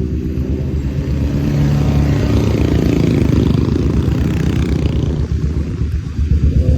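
Royal Enfield Classic 500's single-cylinder engine running under way as the motorcycle is ridden, its pitch shifting with the throttle and easing off briefly near the end.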